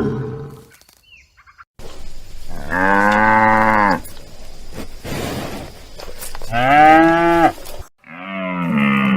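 Cattle mooing: three drawn-out moos, about a second each, the last beginning near the end.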